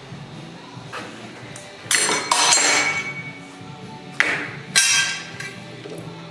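Metal drill bits clinking and clattering against metal, in two bursts about two and four seconds in, each leaving a short metallic ring.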